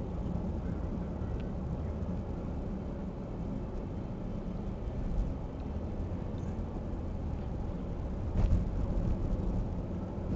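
Steady low rumble of motor vehicle engines, with a brief louder swell about eight and a half seconds in.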